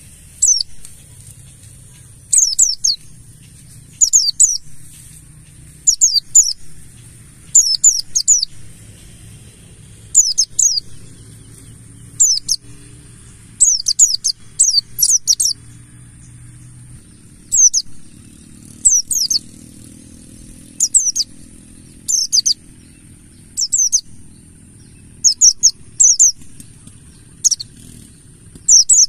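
Oriental white-eye (pleci buxtoni) singing: short, high phrases of quick falling notes, repeated about every one and a half to two seconds, over a faint steady high hiss.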